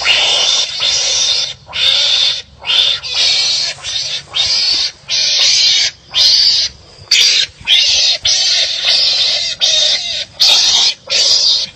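Wild animals fighting, giving a rapid run of harsh, raspy screeching calls, each about half a second to a second long with brief gaps between.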